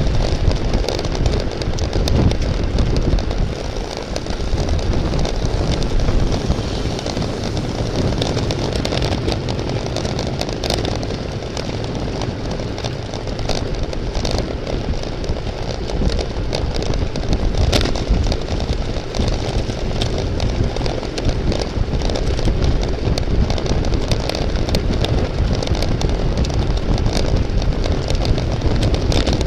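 Steady rumble of wind and road noise from a bicycle riding at race speed, buffeting the microphone, with a few short clicks.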